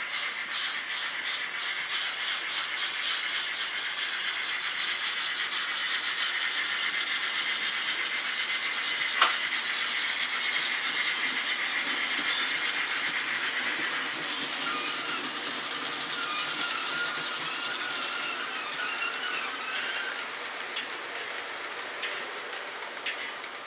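H0 scale model trains running on the layout: the steady rolling and motor noise of miniature wheels on the track, with a single sharp click about nine seconds in.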